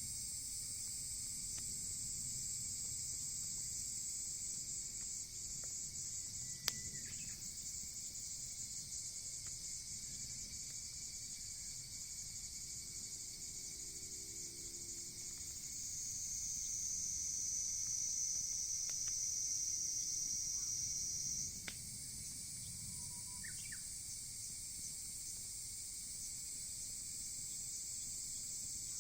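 Insects chirring steadily in a high band, joined from about halfway by a louder, even trill that cuts off suddenly some five seconds later. A few sharp pops from the wood fire stand out, the loudest about seven seconds in.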